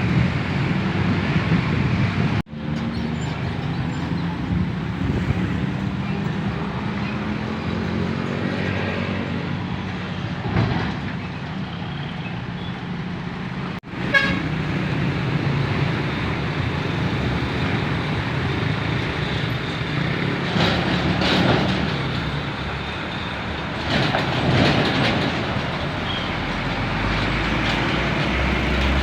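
Large trucks driving by on a road: steady engine and road noise, with horn toots. The sound drops out sharply twice, at about two and a half and fourteen seconds in.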